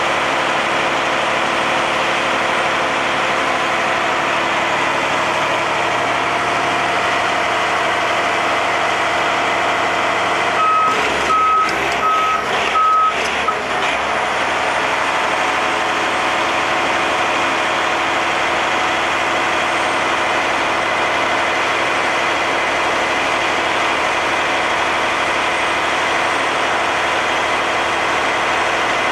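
Truck engine running steadily; about a third of the way through, a reversing alarm gives four short beeps.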